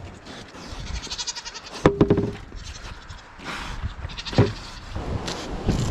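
Nigerian dwarf goats bleating in short calls, one about two seconds in and another a little past four seconds.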